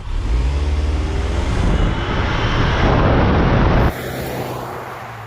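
2019 Ford Ranger's engine under hard acceleration, rising in pitch over heavy rushing noise. The sound cuts off suddenly about four seconds in, leaving a lower steady hum.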